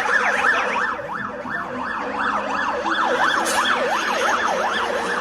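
Emergency vehicle siren sounding in a fast yelp, its pitch sweeping rapidly up and down a few times a second.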